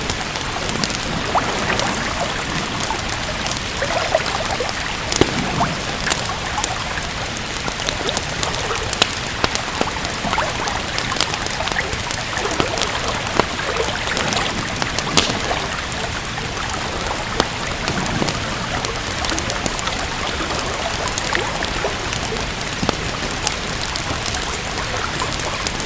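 Steady rain, with the irregular sharp pops and crackles of a wood fire burning in a fireplace.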